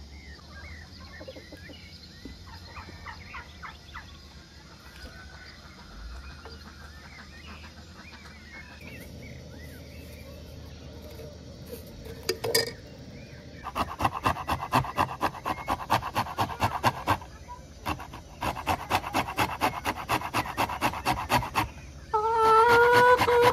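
A lemon grated against a metal box grater in rapid strokes, about five a second, in two runs over the second half. Before that, faint poultry calls are heard, and near the end a steady pitched tone joins.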